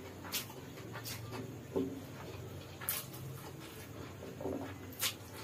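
Close-miked eating sounds of a man chewing a mouthful of chicken and noodles, with several sharp wet mouth smacks spread through and one louder, duller gulp or smack about two seconds in.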